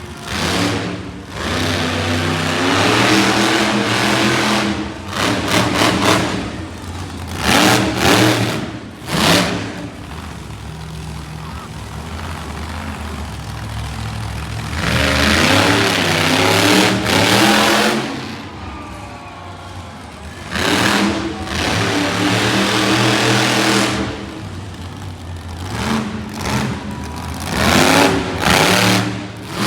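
Monster truck engines revving hard in repeated surges, pitch climbing and falling, with several quick throttle blips and a longer high-rev pull in the middle; between surges the engine drops back to a lower running note.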